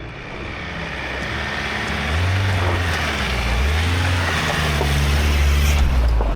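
Vehicle driving, with engine and road noise growing louder and the low engine note shifting in pitch a couple of times; the sound cuts off suddenly at the end.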